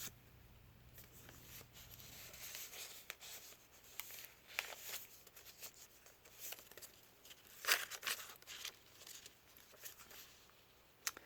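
Faint rustling and crinkling of paper as the pages and cards of a handmade junk journal are turned and handled, with a couple of louder brief swishes, one a little before halfway and one about two-thirds through.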